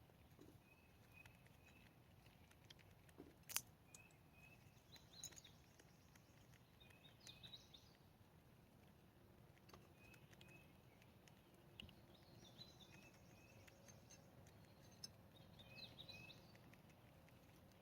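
Faint high chirping calls from small animals, short notes repeating every second or two with a few quicker twittering clusters, over scattered light clicks and one sharper click a few seconds in.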